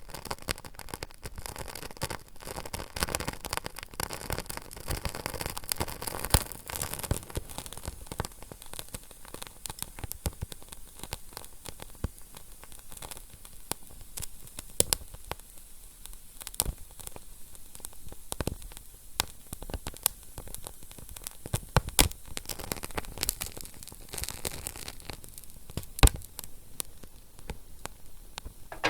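Fire crackling: a steady hiss, heavier in the first few seconds, with frequent sharp pops and snaps and a few louder snaps in the second half.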